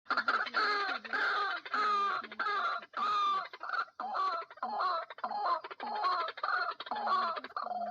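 Fowl calling over and over, about two harsh, wavering calls a second, during a fight between a rooster and a white-breasted waterhen.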